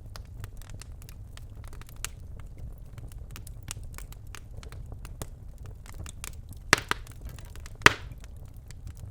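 Birchwood fire crackling in a fireplace: scattered small snaps over a low steady rumble, with two loud pops, the first a quick double, a little past two thirds of the way through.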